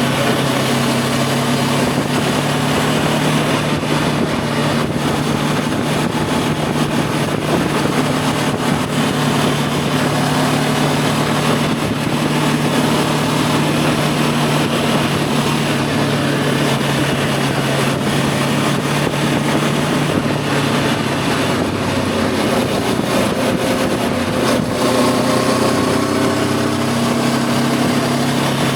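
Voge 525 DSX's parallel-twin engine running at a steady cruise under a constant rush of wind and road noise. The engine note rises a little near the end as the bike picks up speed.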